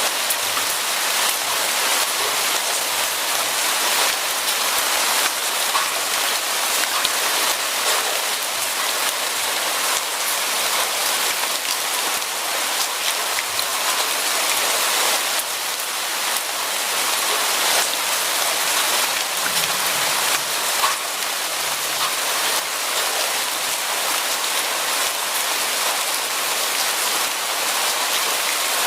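Steady rain falling and pattering on a surface, an even hiss full of small drop ticks.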